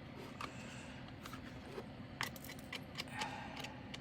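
Small irregular plastic clicks and taps of diamond painting: a drill pen picking up resin drills and pressing them onto the sticky canvas, with a brief rustle near the end.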